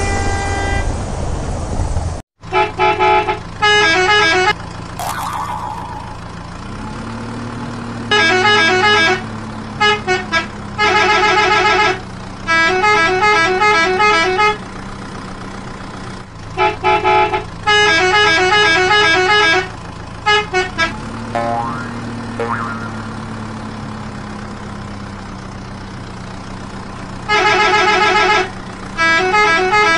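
Vehicle horn sound effect honking in bursts of rapid repeated beeps, over a steady engine hum whose pitch rises and levels off twice.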